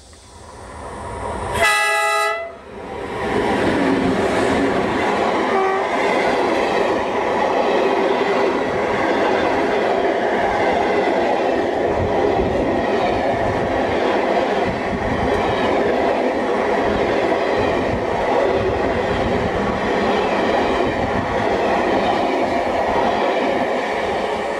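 A DF4 (Dongfeng 4) diesel locomotive comes in, gives one short horn blast about two seconds in, and then its passenger coaches roll past close by. The coaches make a steady loud rumble with wheel clicks over the rail joints.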